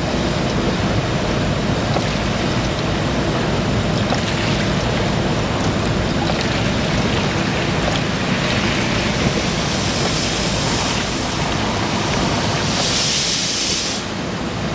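Automatic truck wash spraying water over a truck, heard from inside the cab as a loud, steady rushing noise. A brighter hiss of spray rises about thirteen seconds in, then eases for a moment.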